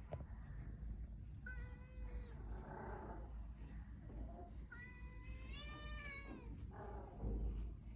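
A cat meowing repeatedly: a short meow about a second and a half in and a longer, drawn-out meow around the middle, with fainter calls between them, over a low steady hum.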